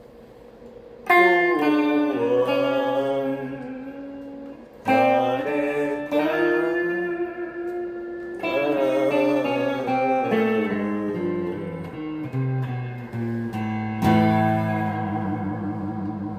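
Guitar music: plucked guitar chords and notes, each phrase starting with a sharp attack (about one, five, eight and a half and fourteen seconds in) and ringing out slowly.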